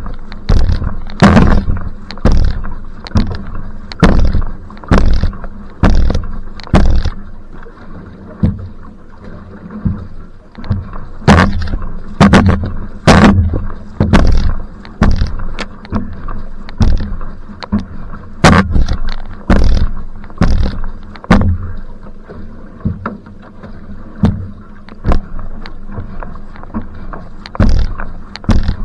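Va'a (outrigger canoe) being paddled at sprint pace: a splash and knock with every paddle stroke, about one and a half strokes a second, over steady water and wind noise.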